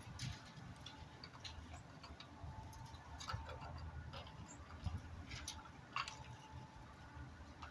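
Irregular light clicks and taps, a few of them sharper, from small birds around a backyard feeding spot, over a low steady background hum.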